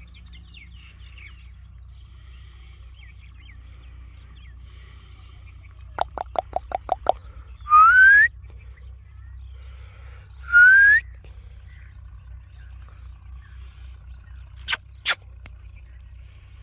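A parrot whistling: two loud rising whistles about three seconds apart, after a quick run of about seven sharp clicking notes. Two sharp clicks come near the end, over a low steady hum and faint chirping.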